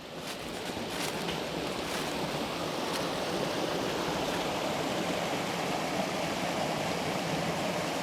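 Creek water rushing over rocks in a steady, even rush that swells over the first second or so and then holds level.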